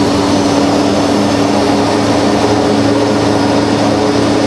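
Mitsubishi MU-2's Garrett TPE331 turboprop running at high rpm on the ground, its four-bladed propeller held at about 103 to 104 percent by the overspeed governor during the governor check. A steady, even drone with a faint high turbine whine above it.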